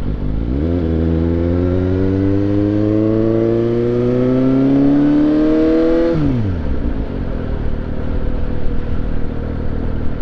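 Suzuki GSX-S750's inline-four engine accelerating through one gear, its revs climbing steadily for about five seconds, then dropping quickly as the throttle closes. Steady wind and road rush follows.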